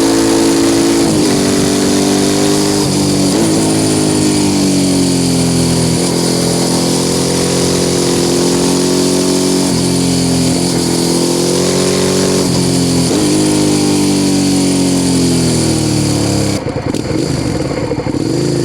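Suzuki SV650 S V-twin engine running through a Mivv aftermarket exhaust while riding. Its note rises and falls, with a short break every few seconds. Near the end the note turns rough and uneven.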